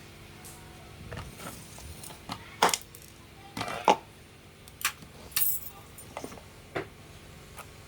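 Small metal parts and tools being handled: about ten irregular sharp clicks and clinks, a few with a brief metallic ring, the loudest in the middle.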